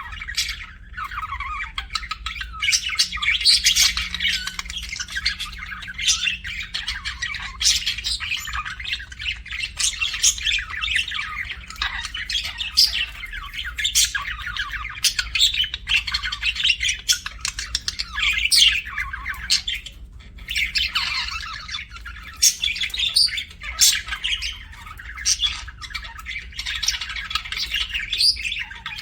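Budgerigars chattering and chirping almost without pause, a busy warble broken by sharp high squawks, with brief lulls about twelve and twenty seconds in.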